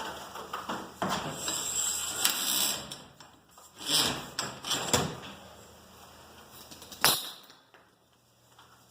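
Steel garage door torsion springs being handled and swapped on the torsion tube: irregular metal scraping and clanking, with one sharp knock about seven seconds in.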